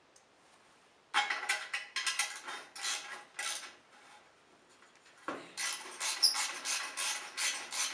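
Metal working noise from fitting an exhaust pipe to a lawn tractor: quick scraping, clinking strokes, several a second. They start about a second in, pause briefly, then pick up again more densely about five seconds in.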